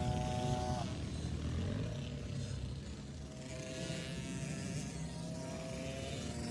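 Small four-stroke kids' dirt bike engine running on the track, its note changing with the throttle: it drops about a second in, climbs steadily for a couple of seconds, then drops again near the end.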